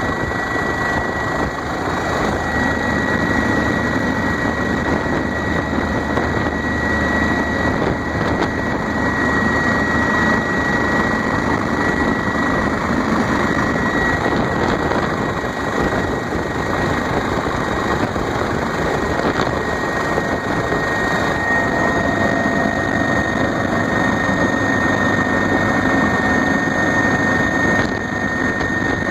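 Bell OH-58 Kiowa helicopter's single turbine engine and rotors, heard from inside the cabin as a steady, loud rush with a thin high whine running through it.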